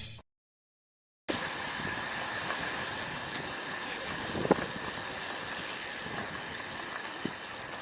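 Steady wind and road noise of a road bike ridden in strong wind, heard on an action camera's microphone, with a couple of faint ticks. It starts about a second in, after a loud sound cuts off into dead silence.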